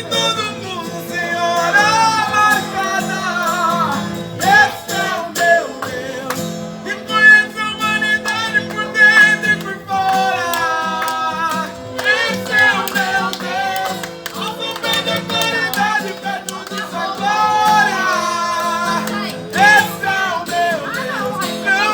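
Singing of a Christian worship song (louvor) accompanied by a plucked acoustic guitar.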